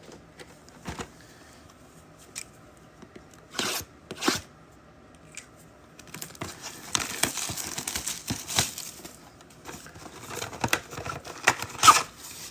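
Plastic shrink wrap being torn off a sealed hobby box of trading cards and the box opened: a few short rips and clicks at first, then steady crinkling and tearing of the plastic from about halfway, with a couple of sharp rips near the end.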